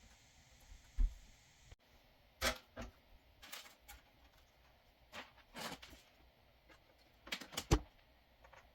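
A handful of short, light clicks and knocks spaced irregularly over several seconds, with a sharper knock about a second in and a quick cluster near the end.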